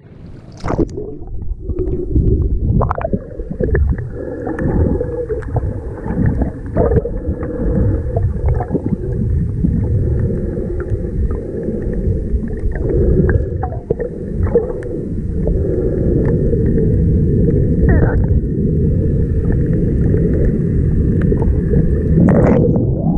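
Muffled underwater sound while snorkeling: steady sloshing and gurgling of water, with scattered sharp clicks and knocks.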